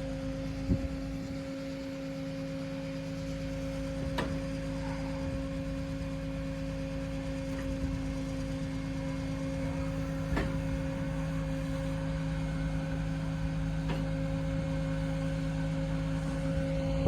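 Steady mechanical hum of a Scania truck's engine and the hydraulics of its HIAB loader crane running, a few constant tones over a low rumble, with a handful of sharp clicks along the way.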